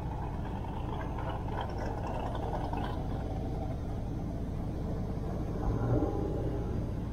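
Steady low rumble of a car engine running, with a brief louder swell about six seconds in.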